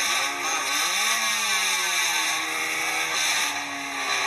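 Race car engine revving while the car is held at the drag strip start line: the revs climb in the first second, hold and slowly sag, then rise again near the end.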